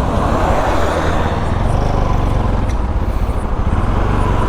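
Bajaj Pulsar NS200 motorcycle being ridden in traffic: its single-cylinder engine runs steadily under a dense low rumble of road and wind noise.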